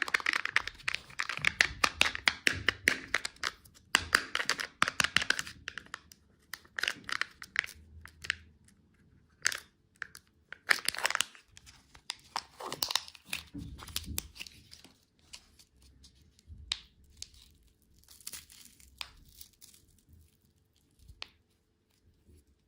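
Plastic packaging crinkling and being torn open by hand. The crackling is dense for about the first six seconds, then comes in separate short rustles and tears that thin out near the end.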